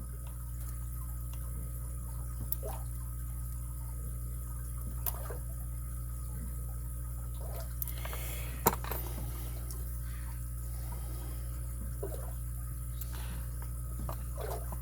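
Faint scattered clicks and scrapes of a lock pick and tension tool working the pins inside a padlock's keyway, with one sharper click a little under nine seconds in, over a steady low hum.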